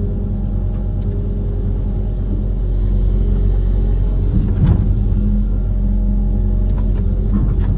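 Kobelco SK130 amphibious excavator's diesel engine running steadily under load, getting a little louder about three seconds in. A single clank comes about halfway through, and a few lighter knocks come near the end.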